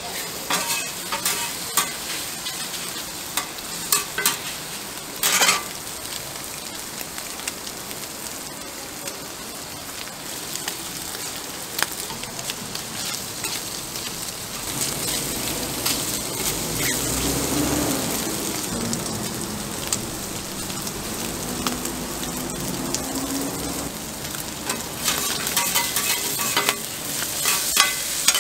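Pork intestines (gopchang) sizzling on a flat-top griddle, a steady frying hiss, while two metal spatulas scrape and clack on the hot plate as they toss the meat. The spatula strikes come in short clusters, most in the first few seconds and again near the end.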